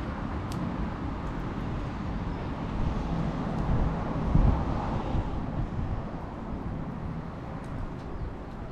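Campfire burning, with a few faint sharp crackles over a steady low rumble and a louder surge of rumble about halfway through.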